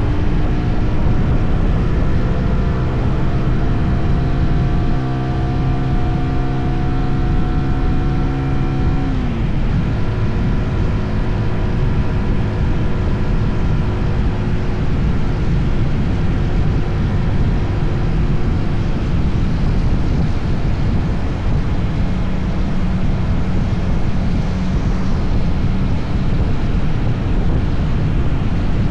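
Motorcycle engine running under way, with wind rushing over the microphone. The engine note climbs slowly as the bike speeds up, drops sharply about nine seconds in, then holds fairly steady.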